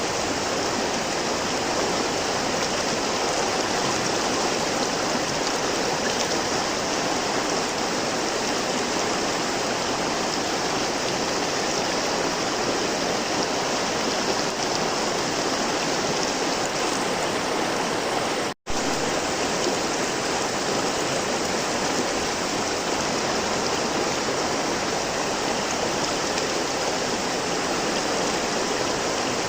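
River water flowing steadily, an even rushing and burbling with no let-up. It cuts out for a split second once, about two-thirds of the way through.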